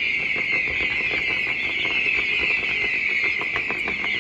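A fireworks display crackling: many small, rapid, irregular pops over a steady hiss, thickest near the end.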